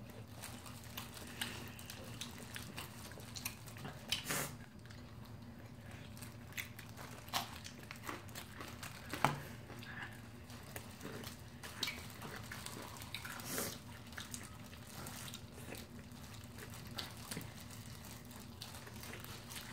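Bites and chewing of sauced fried chicken eaten by hand, heard as scattered small smacks, clicks and rustles over a low steady hum.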